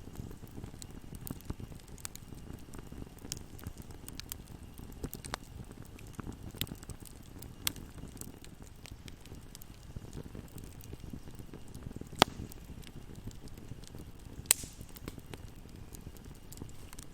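Wood fire burning in a fireplace: a low, steady rumble of flames with frequent small crackles and pops. Two sharp, louder pops stand out, about twelve and fourteen and a half seconds in.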